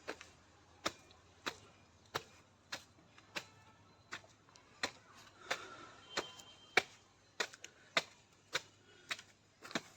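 Footsteps of a person walking at a steady pace, sharp, evenly spaced steps about one and a half to two a second.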